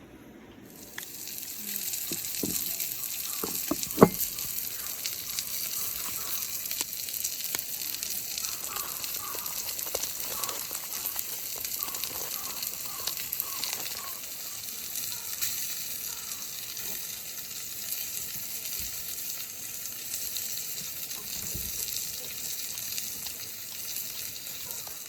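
Food frying in a pan: a steady sizzle that starts about a second in, with a few short knocks, the sharpest about four seconds in.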